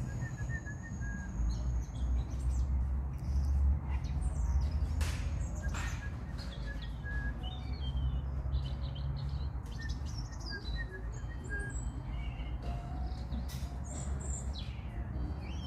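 European robin singing, a run of short, varied high warbling phrases with brief pauses between them, over a steady low rumble.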